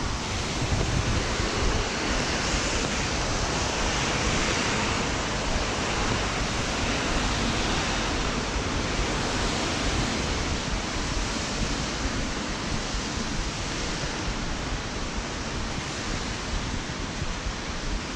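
Steady rain hissing and pattering on a clear plastic umbrella held just above the microphone, a dense, even wash of sound with no let-up.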